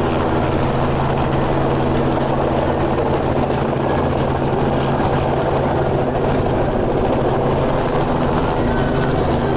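Helicopter overhead, its rotor and engine running steadily with a low, even drone.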